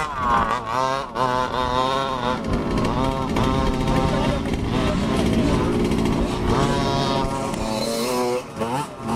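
Small two-stroke engines of large-scale RC cars revving up and down, the pitch swooping repeatedly with each throttle change.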